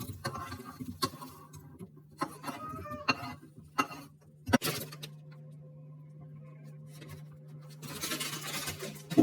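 Kitchen handling sounds: scattered knocks and clicks of items being handled, over a steady low hum, with a short burst of hiss near the end.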